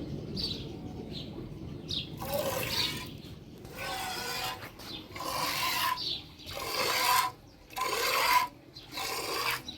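A series of rasping, scraping strokes, each lasting about half a second to a second, with short pauses between them.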